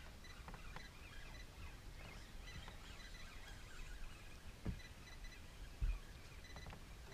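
Faint outdoor quiet with small birds chirping here and there, and two brief low thumps nearly a second and a half apart.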